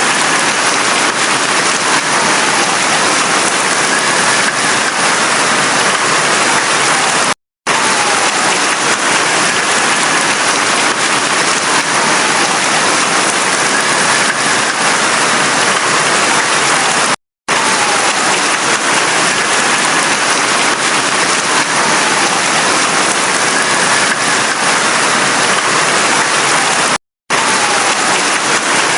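Heavy rain falling steadily, a dense even hiss. It cuts out to silence for an instant three times, about every ten seconds.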